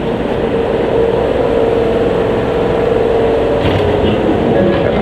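Ohmi Railway electric train standing close beside the platform, running with a loud, steady noise and a humming tone through the middle. A few faint clicks come near the end.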